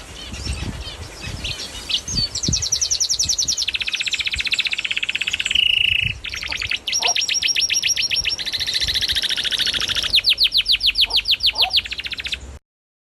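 Domestic canary singing a long song of rapid rolling trills, one trill after another at changing pitches. It cuts off suddenly near the end.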